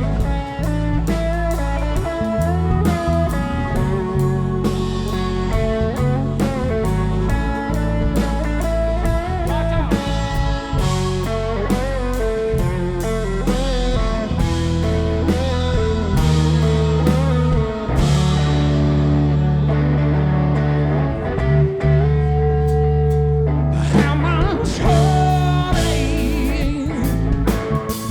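Live rock band playing an instrumental break: an electric guitar lead with bending notes over a steady bass line and drums.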